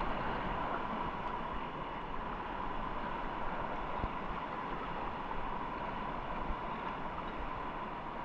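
Steady rushing of flowing river water, with no distinct splashes or strokes.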